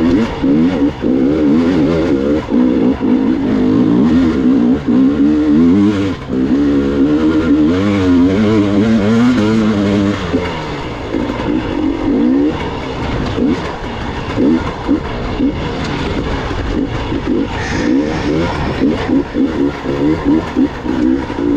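Gas Gas EX 300 two-stroke enduro motorcycle engine revving up and down with constant throttle changes, its pitch wavering quickly. After about ten seconds the revs turn into short, choppy throttle blips.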